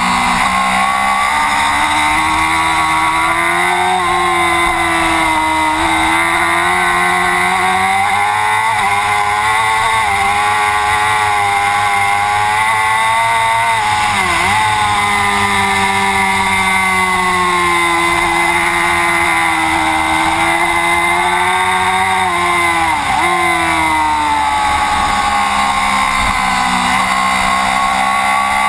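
Racing superbike engine held at high revs, its pitch climbing and falling with the throttle through the corners, with two quick drops in pitch (about halfway and about three-quarters through) as it is braked and shifted down.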